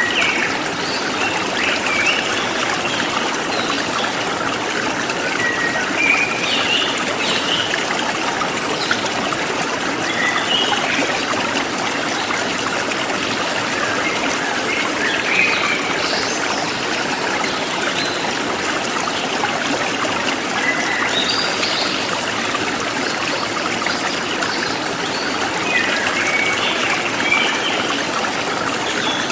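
Forest stream flowing steadily over rocks, with short bird chirps at irregular intervals.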